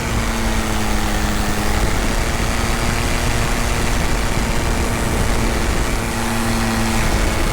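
Tandem paramotor engine and propeller running steadily in flight, a constant loud drone with rushing air over it.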